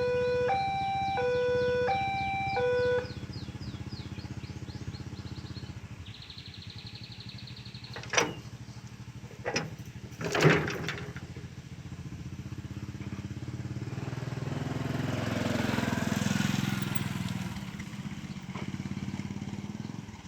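Railway level-crossing warning alarm sounding a repeating two-tone chime, which stops about three seconds in. Road traffic follows, with a few short sharp sounds near the middle and a vehicle passing, swelling and fading, near the end.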